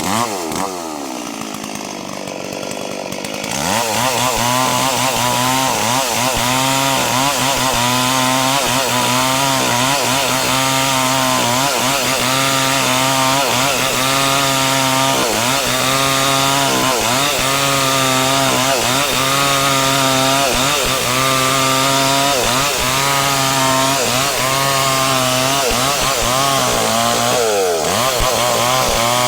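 A small engine or motor running continuously, its pitch wavering up and down every second or two. It is softer for the first few seconds, then steady.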